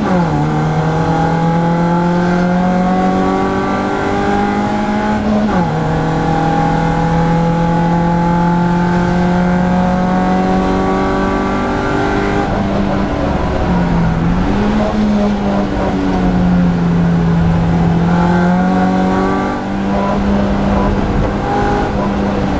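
BMW Compact Cup race car's engine pulling hard, heard inside the stripped cabin. Its note climbs through the gears, with a sharp upshift drop right at the start and another about five seconds in. Between about twelve and fifteen seconds in the note falls off and wavers as the car slows for a corner, then it climbs again.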